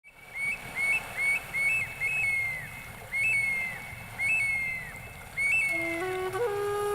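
A series of about seven clear, high whistled bird-like calls, each holding a note, stepping up briefly and then sliding down. Near the end a flute melody begins under them.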